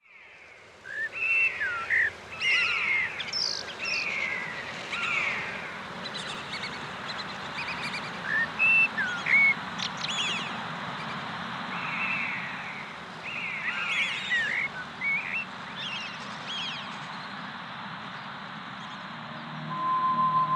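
Several birds singing and calling: repeated downward-sliding whistles, quick chirps and trills over a steady background hiss. A single held note comes in near the end.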